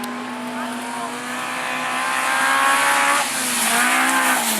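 Autograss racing cars' engines running hard and growing louder over the first three seconds as cars come past. Near the end one engine note swings up and then back down.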